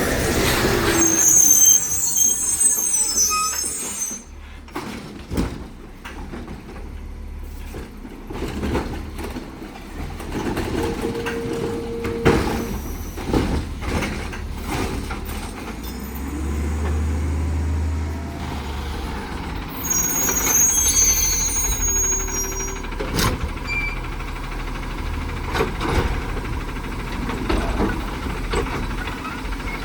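Side-loader garbage truck at work: the diesel engine runs and revs up for a couple of seconds past the middle, with repeated knocks and clanks. Short high air-brake hisses come near the start and again about two-thirds in.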